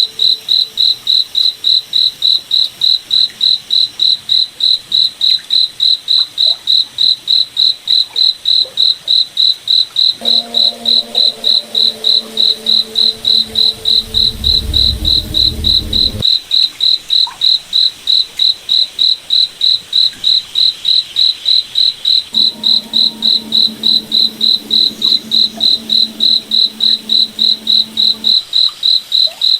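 Crickets chirping in a steady, even rhythm of about three high chirps a second. Twice a low, steady hum of several tones sounds under them for several seconds, the first time with a deep rumble near its end.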